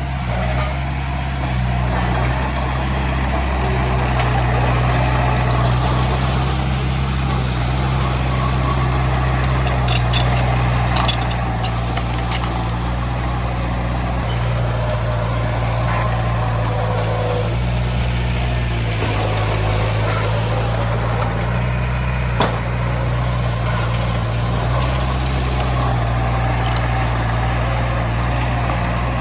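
Diesel engine of heavy earthmoving machinery running steadily under work, with a few short metallic knocks about a third of the way in and one sharper knock later.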